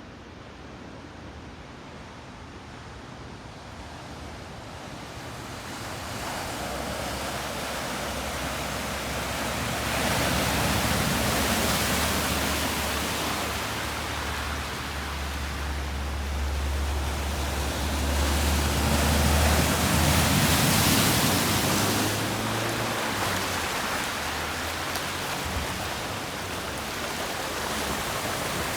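Rushing floodwater, a steady wash of noise that swells louder twice, with a low rumble underneath in the middle.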